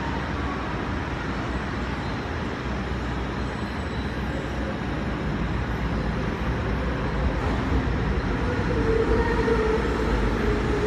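MTR Ma On Shan Line C-Train arriving at a platform, its running noise growing louder as it pulls in. A steady whine comes in near the end.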